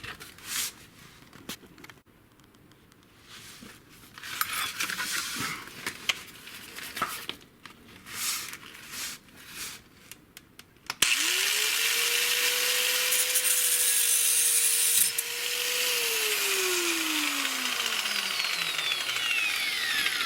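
Scraping and knocking of metal parts being handled, then about eleven seconds in an angle grinder starts suddenly and cuts through the old steel exhaust pipe with a loud hissing grind. Its motor whine holds steady, then sinks in pitch over the last few seconds as the tool slows.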